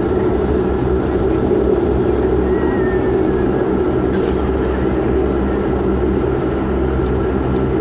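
Steady propeller and engine drone of a WestJet Encore Bombardier Q400 turboprop, heard from inside the passenger cabin while the aircraft rolls out after landing.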